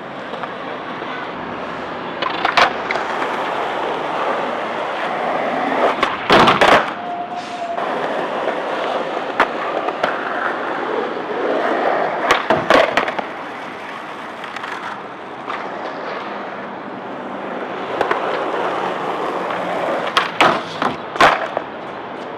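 Skateboard rolling and grinding, broken by sharp clacks of the board, in clusters about six seconds in, around twelve seconds and again near the end.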